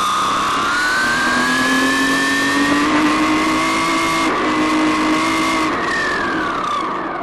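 RC car motor whining at speed: the pitch climbs over the first couple of seconds, holds high, then drops away about six seconds in as the car slows, over a steady rushing noise.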